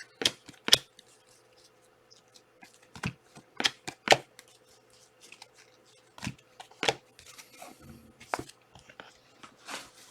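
Trading cards being handled on a table: a series of about eight sharp clicks and snaps, spaced unevenly, with quiet between them.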